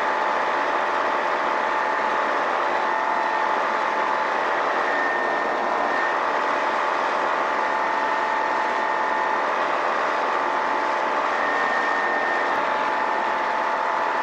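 Remos light-sport aircraft's Rotax 912 engine and propeller droning steadily inside the cabin during the climb-out. A few faint steady tones sit in the drone, and the sound cuts off suddenly at the end.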